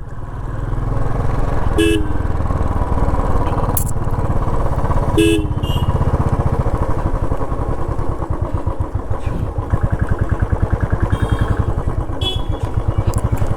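Motorcycle engine running steadily while riding, its fast firing pulses even throughout, with two short horn beeps about two and five seconds in.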